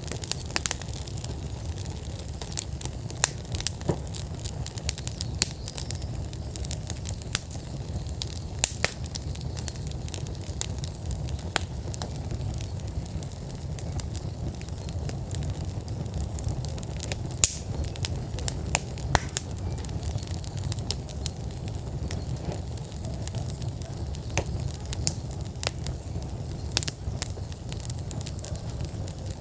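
Outdoor wood fire at full burn in a fire pit, crackling with frequent sharp pops of burning logs over a steady low rumble.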